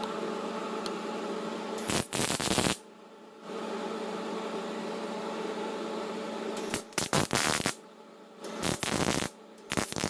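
Arc welder turned down low, welding thin, rusted muffler sheet metal: a steady buzzing arc broken several times by louder crackling spurts, with short pauses between beads.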